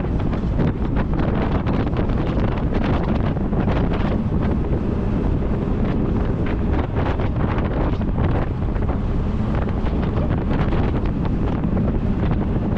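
Loud, steady wind buffeting the microphone, with a dense low rumble, as on a camera moving fast through the open air.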